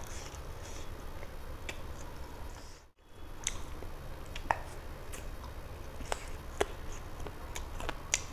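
Close-miked mouth sounds of a person eating a chicken leg by hand: chewing with wet smacks and short sharp clicks, picked up by a clip-on microphone on the shirt. The sound cuts out briefly about three seconds in.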